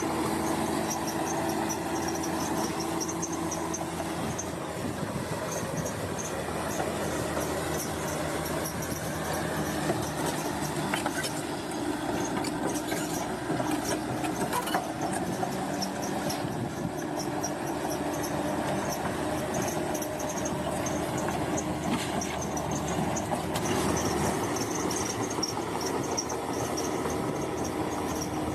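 Large bulldozer's diesel engine running steadily while its steel tracks squeal and clank with a high, rhythmic squeal.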